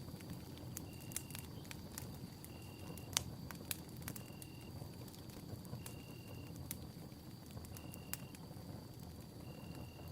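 Campfire burning, crackling with frequent sharp pops over a low rumble; the loudest pop comes a little after three seconds in. A steady high tone runs underneath, and a short high chirp repeats about every second and a half.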